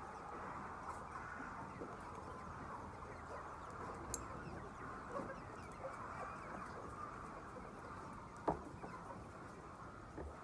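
A large flock of chickens clucking and chirping together in a dense, steady chorus of many overlapping calls. A single sharp click stands out about eight and a half seconds in.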